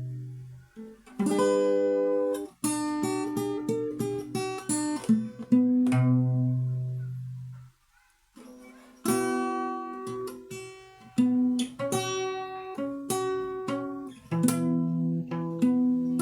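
Solo acoustic guitar played fingerstyle: plucked melody notes ringing over low bass notes and chords. The playing stops briefly about eight seconds in, then carries on.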